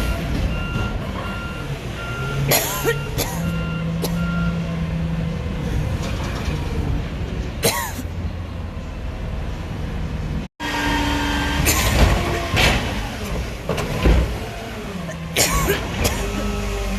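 Waste truck's diesel engine running with its reversing alarm beeping about twice a second for the first few seconds, then several short sharp hisses and clanks.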